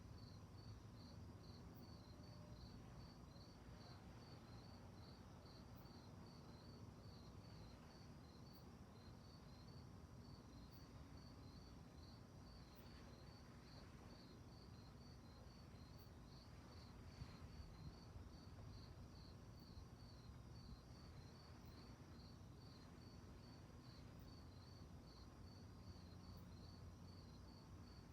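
Faint crickets chirping at night in an even, unbroken run of high chirps.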